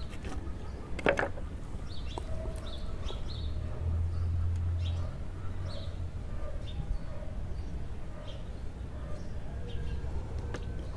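Small birds chirping on and off over a steady low rumble, which grows louder for about a second around four seconds in. A light knock comes about a second in.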